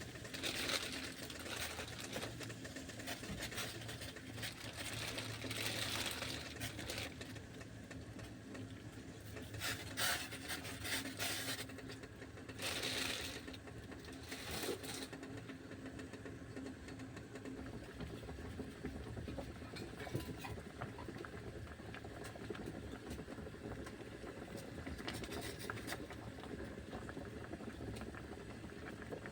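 Home kitchen cooking sounds: a steady low hum with several short bursts of hiss and scattered small clicks and knocks.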